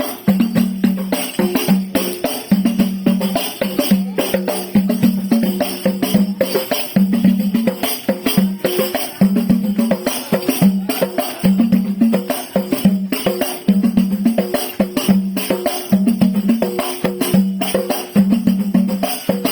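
Lively percussion music: drums struck in a fast, steady rhythm with a deep drum tone recurring about once a second, and a jingling tambourine on top.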